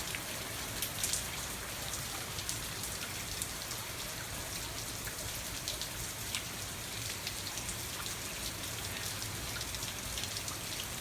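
Hurricane rain falling steadily in 40 mph wind gusts, a constant hiss with scattered sharp drop hits on nearby surfaces.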